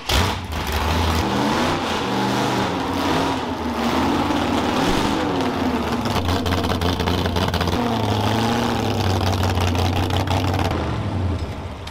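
Demolition derby car's engine running through open upright exhaust stacks, revving up and down a few times as the car is driven onto the trailer.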